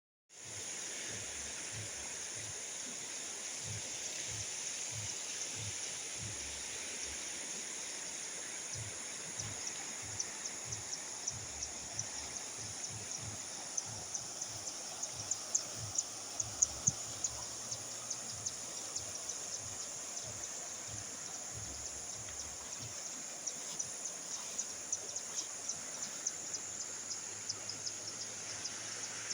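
Steady rush of a river swollen by storm rain, with insects chirping in a high, rapidly ticking band above it and irregular soft low thumps throughout.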